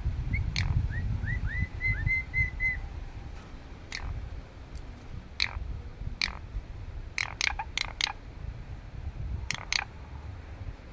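A starling calling: a quick run of short, rising whistled notes, then single sharp chirps about every second.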